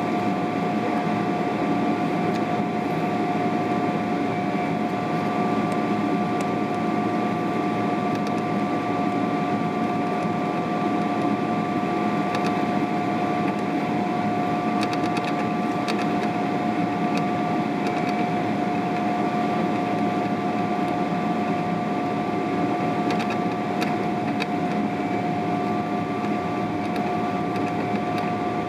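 Steady cabin noise inside a Boeing 777-300ER airliner in flight: a constant rush of air and engine noise from its GE90-115B turbofans, with two steady whining tones and a few faint ticks.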